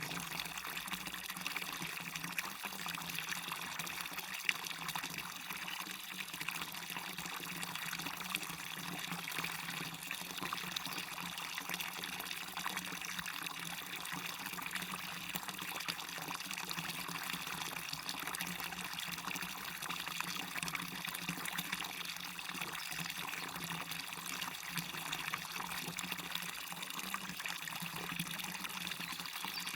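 Small waterfall and stream running steadily: an even rush of falling and splashing water with a light trickle.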